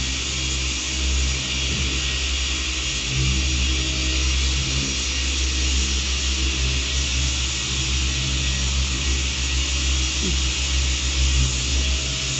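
Electric car polisher running steadily while buffing paint: a continuous low hum with a high hiss over it, a little louder from about three seconds in.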